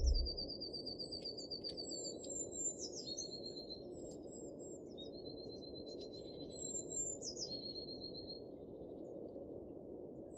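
Birds singing: a series of high, thin, held whistled notes, each broken by quick downward sweeps, over a steady low background hum.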